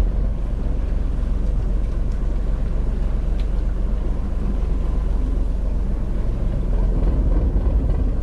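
A fishing boat's engine running steadily: a continuous low drone with the rush of wind and water over it.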